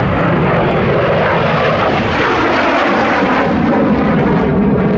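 A MiG-17F (Lim-5) jet fighter's single turbojet engine, loud and steady as the jet flies its display. The high end of the noise thins out near the end as it moves away.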